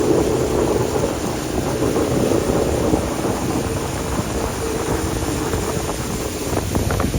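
Motorboat engine running steadily under way on the river, with wind buffeting the microphone.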